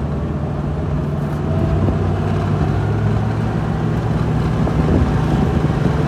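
A 2000 Jeep Wrangler's engine and road noise heard from inside the cabin while driving, a steady low hum. The automatic transmission is holding in first gear instead of upshifting.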